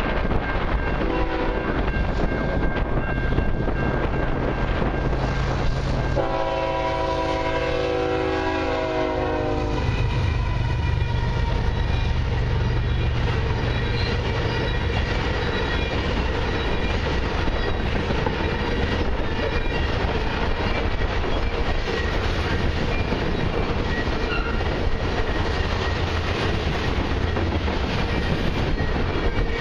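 Diesel freight locomotives blowing their horn for a road crossing: a short note about a second in, then a long blast about six seconds in that drops in pitch as they pass. Then a loaded crude-oil tank car train rolling by with a steady rumble and clatter of wheels on the rails.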